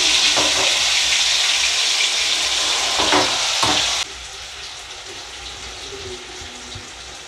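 Chicken pieces frying in hot ghee in an aluminium kadai, a loud steady sizzle with two short knocks about three seconds in. The sizzle cuts off abruptly about four seconds in, and much quieter room sound follows.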